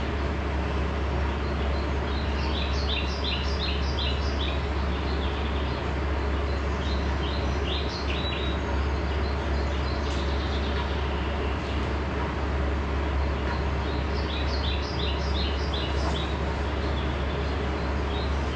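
Birds chirping in several quick runs of short, high notes every few seconds, over a steady low hum and a constant hiss.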